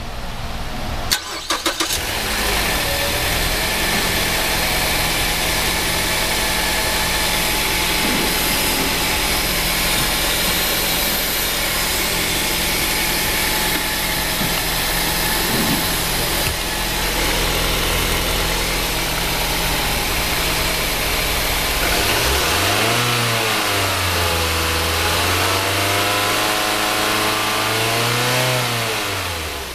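Mazda 6's 2.5-litre four-cylinder petrol engine starting, catching about a second in and then idling steadily. In the last several seconds it is revved up and down a few times, the pitch rising and falling, and it drops back to idle at the end.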